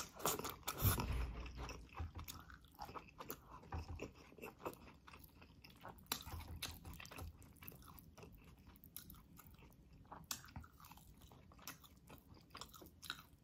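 A person chewing green beans and braised beef rib close to the microphone, with soft wet mouth clicks and smacks coming irregularly.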